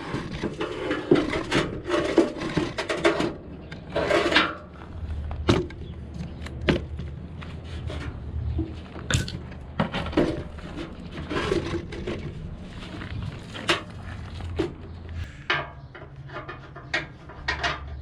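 Hand tools clinking, knocking and scraping on the metal bolts and brackets of a car bumper, in irregular sharp strikes with a stretch of scraping near the start.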